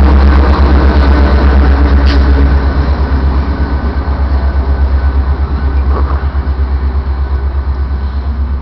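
Metra commuter train's diesel locomotive running while the train stands in the station: a loud, steady low rumble that eases off a little after about two and a half seconds.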